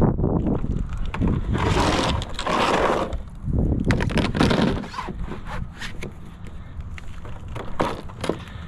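Irregular knocks and clicks with scraping, including a longer scraping rush about two seconds in.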